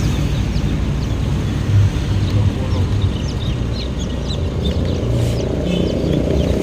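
Many day-old native chicks peeping in short, high, scattered cheeps over a steady low engine rumble.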